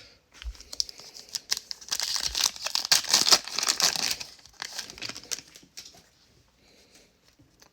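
Wrapper of a trading card pack being torn open and crinkled, loudest from about two to four and a half seconds in, with light rustling before and after.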